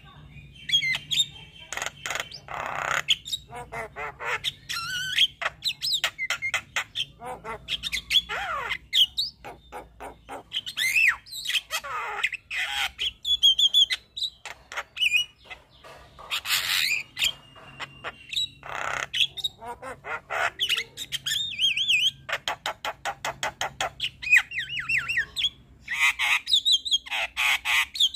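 Javan myna singing a long, varied run of harsh squawks, gliding whistled notes and fast clicking chatter, with short gaps between phrases.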